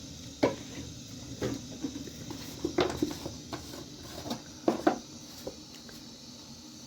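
Irregular knocks and clatters of objects being handled, about a dozen, the loudest about half a second in, near the middle and about two thirds through, over a steady hiss.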